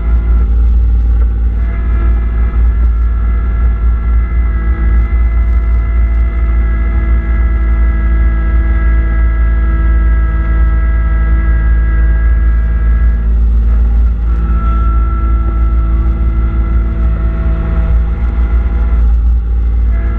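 Kubota B2650 compact tractor's three-cylinder diesel engine running steadily with a heavy low rumble, while the front-mount snowblower works. A steady whine rides on top, shifting in pitch a few times.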